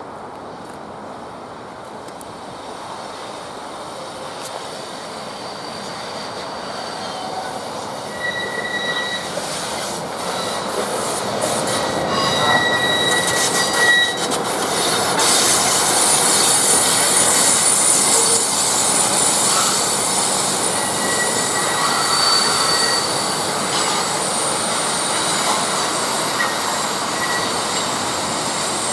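A train rolling past, its steel wheels squealing against the rails in several short high-pitched squeals. The rolling noise grows louder over the first half and stays loud.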